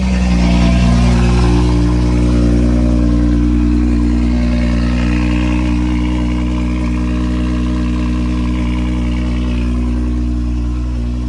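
BMW 440i Gran Coupe's B58 turbocharged inline-six, fitted with a 5-inch aftermarket downpipe, running at a steady high cold-start idle just after firing up. The exhaust is insanely loud.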